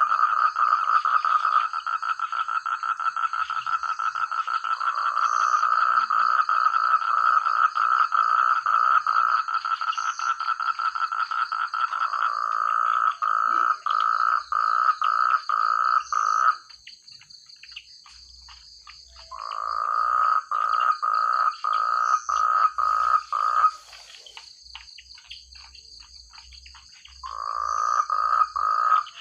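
A chorus of frogs croaking loudly in rapid pulsed calls. The dense calling breaks off about sixteen seconds in, then comes back in two shorter bursts with quieter gaps between. A steady high-pitched trill runs underneath throughout.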